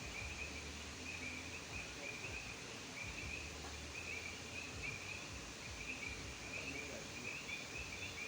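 Chorus of frogs calling: many overlapping short, high chirps repeating without a break.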